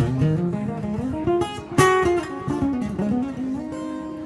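Acoustic guitar played solo: a run of picked notes, a sharply strummed chord about two seconds in, then a chord left ringing near the end.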